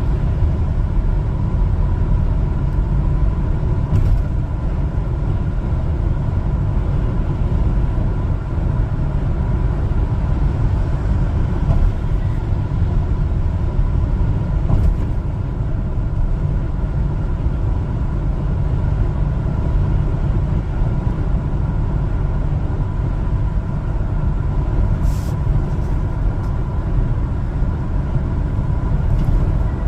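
Steady low rumble of engine and road noise from a one-ton LPG cargo truck driving at an even pace. A faint steady high tone runs through it.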